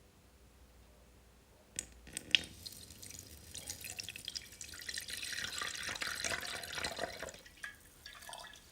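Two sharp clicks, then running water splashing for about five seconds before it tails off.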